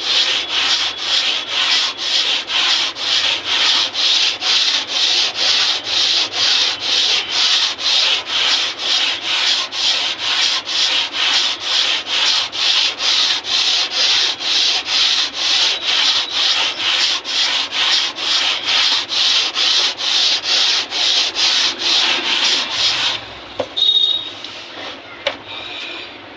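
Sandpaper rubbed back and forth on the wooden surface where a harmonium key seats, in steady, even strokes about two to three a second, sanding it flat so the key closes tightly without air leaking. The sanding stops about 23 seconds in, followed by a few light clicks and taps.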